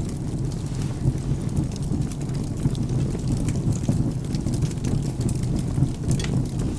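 Wood fire crackling, with scattered sharp pops, over a steady low rumble of rain and thunder.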